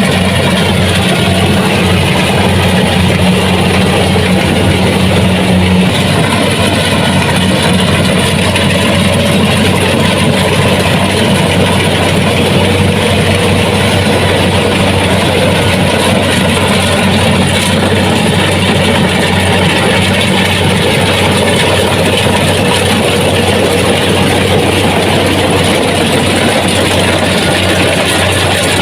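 Kubota DC-70 Plus rice combine harvester running steadily with a loud, even engine drone; its tone changes slightly about six seconds in.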